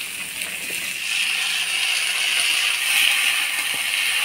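Chopped vegetables sizzling as they fry in hot oil with onions in a pan, a steady hiss that grows louder about a second in.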